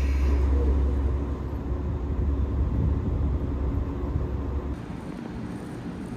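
Low, steady rumble of a train at a station, which drops off sharply about three-quarters of the way through.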